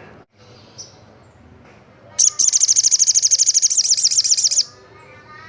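Olive-backed sunbird singing: a loud, rapid, high-pitched trill of about ten notes a second starting about two seconds in and lasting about two and a half seconds, with softer chirps around it.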